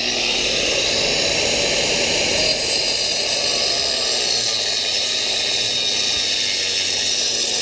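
Angle grinder running steadily under load, cutting an angled slot for chimney flashing.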